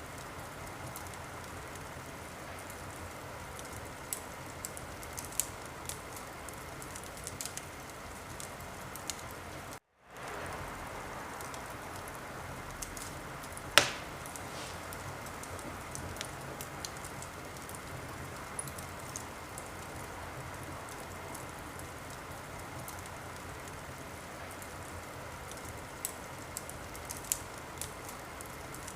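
Wood fire crackling in a fireplace: a steady hiss with scattered small snaps and one loud pop about halfway through. The sound cuts out for a split second about a third of the way in.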